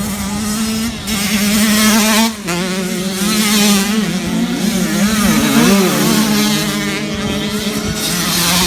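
Motocross dirt bike engines running and revving. The pitch drops about two and a half seconds in, then wavers up and down near the middle.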